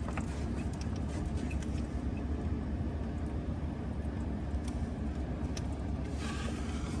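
A vehicle engine running steadily, a low hum with a few faint clicks over it.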